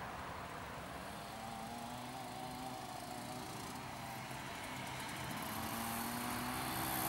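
Small engine of a child's mini motocross bike running steadily at low revs, rising slightly in pitch and growing louder over the last couple of seconds as the bike comes closer.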